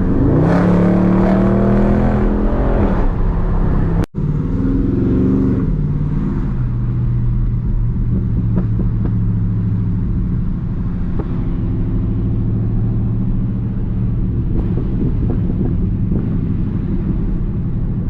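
Dodge Charger Daytona 392's 6.4-litre HEMI V8 accelerating with rising pitch, cut off briefly about four seconds in, rising again, then settling into a steady cruise.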